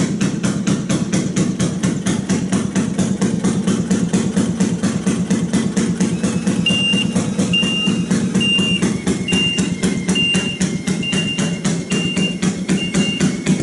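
Fairmont ST2 speeder car's single-cylinder two-stroke engine running steadily, a rapid even train of firing pulses. From about halfway through, a short high chirp repeats about once a second.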